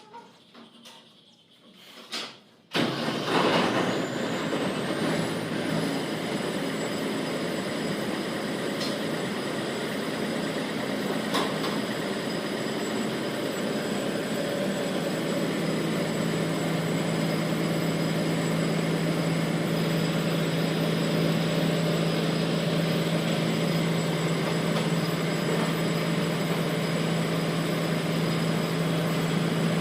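Mahindra Swaraj combine harvester's diesel engine starting suddenly about three seconds in, then running steadily. A high whine rises in pitch just after it catches, and a steady low hum grows stronger about halfway through.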